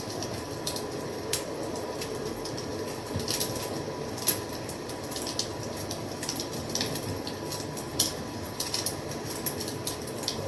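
Wood fire crackling: a steady hiss and low rumble broken by irregular sharp pops and snaps, two louder pops about four and eight seconds in.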